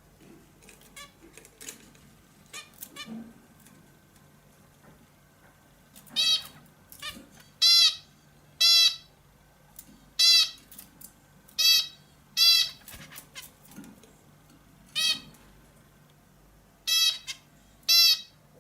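Caged 'hint bülbülü' (a bulbul-type songbird) calling: a few soft chirps, then from about six seconds in a series of about ten loud, short, harsh calls, some in quick pairs. A faint steady low hum sits underneath.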